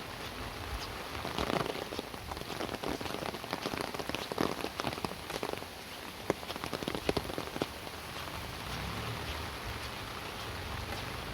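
Rain falling, with a steady hiss and many sharp drops ticking close by, thickest in the first two-thirds. A low rumble comes up near the end.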